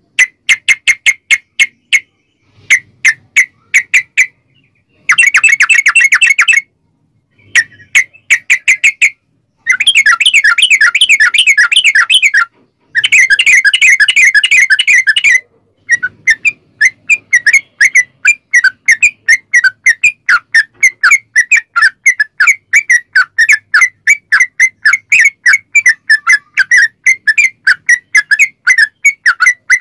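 Yellow-vented bulbul (trucukan) song: loud, sharp chattering notes with long, rapid trills about 5, 10 and 13 seconds in, then a steady run of separate notes about three a second.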